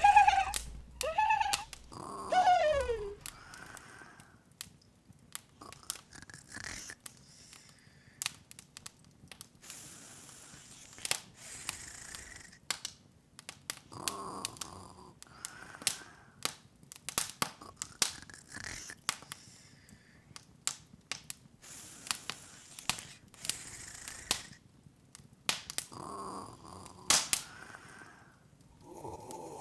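Open wood fire crackling, with irregular sharp pops and soft hiss between them. A few short squeaky voice-like calls in the first three seconds, the last one sliding down in pitch, are the loudest sounds.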